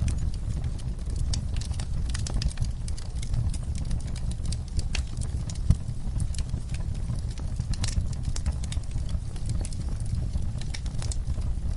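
Campfire burning: a steady low rumble of flames with frequent irregular crackles and pops of burning wood, one louder pop about halfway through.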